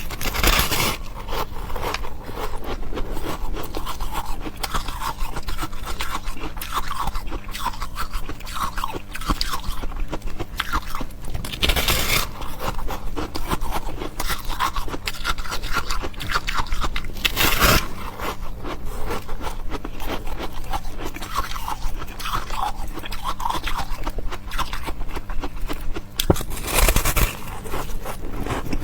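Close-miked chewing and crunching of ice, a dense crackle of breaking fragments between the teeth, with a few louder crunching bites spaced through it.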